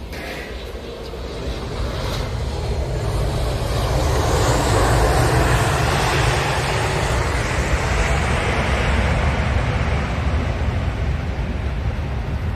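Jet airliner taking off, its engine noise building to a loud, deep rush and holding.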